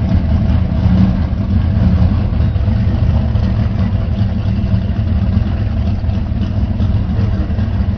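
Car engine running steadily at low revs, a continuous deep-pitched sound with no revving.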